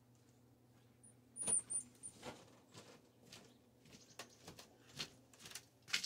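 A few faint, very high bird chirps about a second in, followed by irregular soft clicks and taps.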